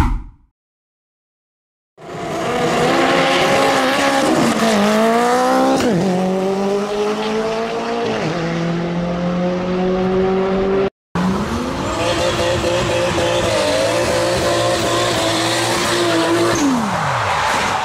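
Mk4 Toyota Supra's straight-six engine under hard acceleration, its pitch climbing and then dropping sharply twice at the gear changes. After a sudden cut, another Supra's engine rises in pitch, holds steady, then falls away near the end as it comes off the throttle.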